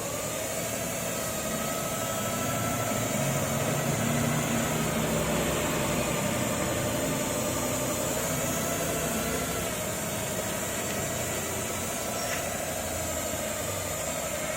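A machine running steadily: a slightly wavering hum over a constant hiss.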